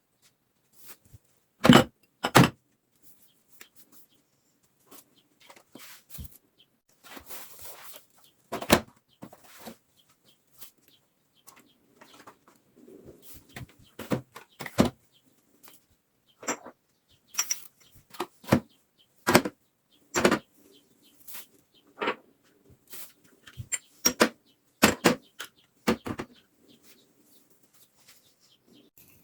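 Irregular clicks and knocks of containers, shelves and drawers being handled and set down in a refrigerator during cleaning, with two sharp knocks about two seconds in and quicker ones later on.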